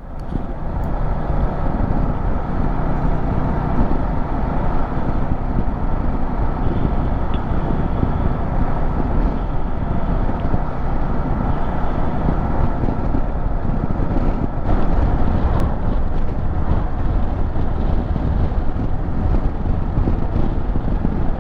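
Motorcycle riding along at steady speed: engine and road noise mixed with wind buffeting the microphone.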